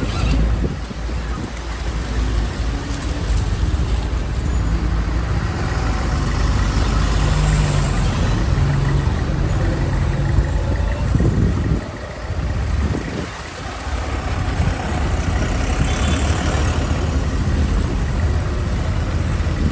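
Heavy truck engines running in slow, congested traffic on a muddy road, a deep rumble with one engine's note climbing in steps in the first half.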